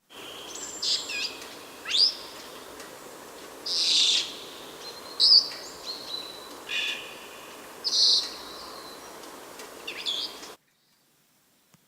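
Senegal parrot giving a string of short, shrill calls and squawks, some of them quick rising whistles, one every second or two over a steady hiss. The sound cuts off abruptly near the end.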